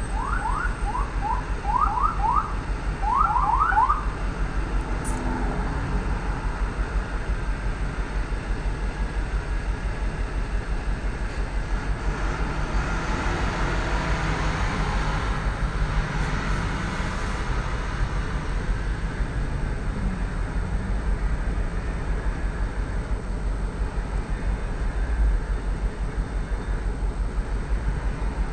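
1999 Ford Expedition's 4.6-litre V8 idling with a steady low pulsing while it misfires on cylinder 5. In the first four seconds a run of short rising chirps sounds over it.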